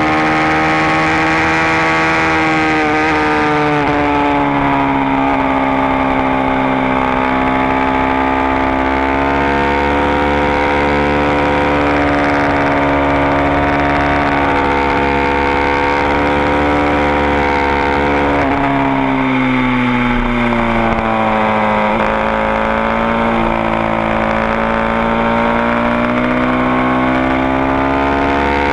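Supermoto motorcycle's engine running hard at high revs, heard onboard while riding at speed. The engine note holds nearly steady, drops for a few seconds about two-thirds of the way through as the throttle eases, then climbs again.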